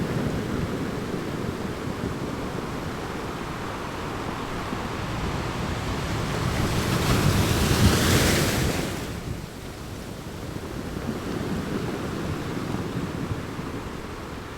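Sea surf on a sandy beach: waves breaking and washing in, one swelling to a louder break about seven seconds in that falls away after nine seconds.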